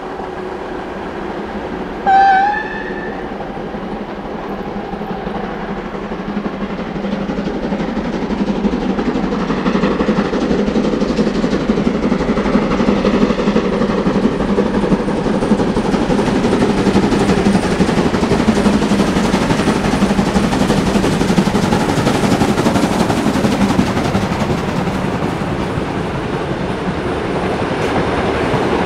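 Steam locomotive giving one short whistle blast about two seconds in, then its train drawing near and passing, the rolling noise of the wagons growing louder from about eight seconds in and staying loud.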